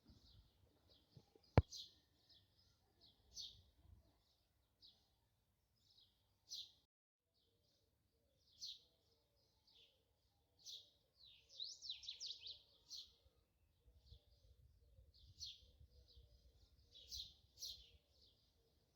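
Small birds chirping faintly: short high chirps every second or two, with a quick run of chirps about twelve seconds in. A single sharp click about a second and a half in.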